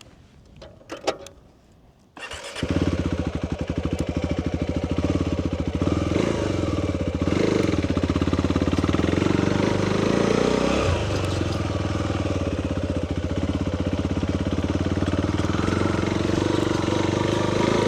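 A sharp click, then the off-road motorcycle's engine starts about two seconds in and keeps running steadily, with a couple of brief revs.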